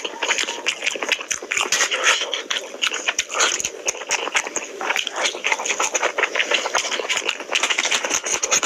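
Close-miked chewing and wet lip-smacking of a person eating rice and curry by hand, a fast irregular run of clicks and smacks, with squelching as his fingers mix rice and curry on the plate.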